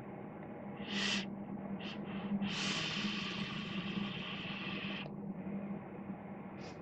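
A drag on a rebuildable dripping atomiser with its airflow wide open: a short breath about a second in, then a steady hiss of air drawn through the atomiser for about two and a half seconds that cuts off abruptly, and another short breath near the end.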